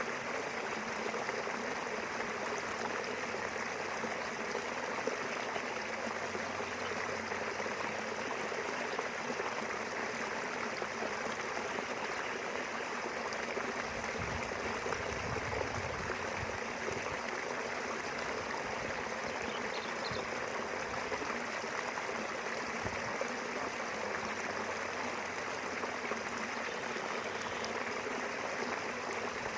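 Small river running steadily past the rice fields: a continuous, even rush of flowing water. A low rumble joins it for a few seconds about halfway through, and again briefly a little later.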